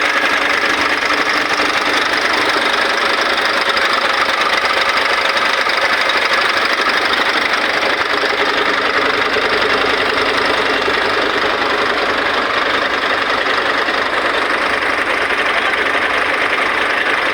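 Scania Super Euro 5 truck's diesel engine running steadily.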